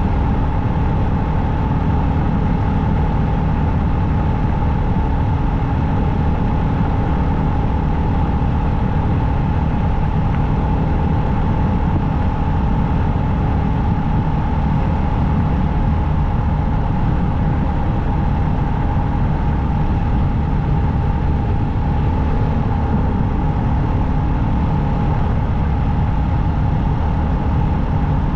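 Motorcycle engine running steadily while riding at an even cruising speed, a constant low drone with a steady tone that holds without change.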